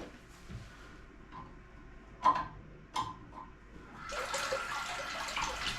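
Two sharp clicks as the toilet's water supply valve is worked, then about four seconds in water starts running steadily into the cistern as it refills after the flush valve replacement.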